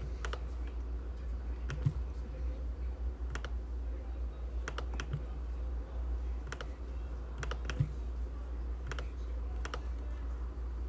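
Typing on a computer keyboard: sparse, irregular key clicks over a steady low hum.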